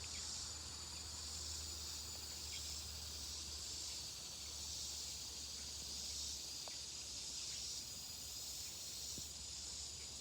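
Faint, steady, high-pitched insect chorus, typical of crickets, with a low hum underneath that stops about six seconds in.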